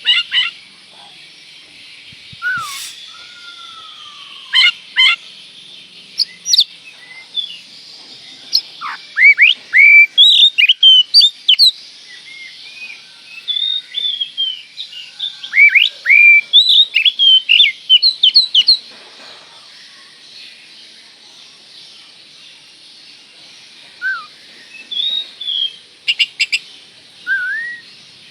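Oriental magpie-robin (kacer) singing: loud, varied whistled notes and quick chirping phrases in bursts, with a pause of a few seconds in the second half, over a steady high hiss.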